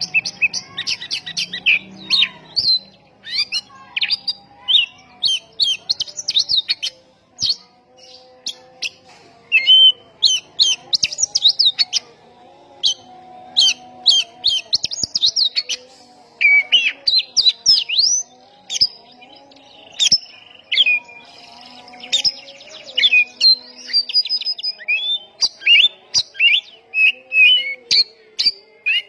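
Oriental magpie-robin (kacer) singing hard: rapid bursts of short, sharp whistled chirps and fast rattling trills, broken by brief pauses. This is the aggressive 'tembakan' burst song used as a lure to provoke other kacer.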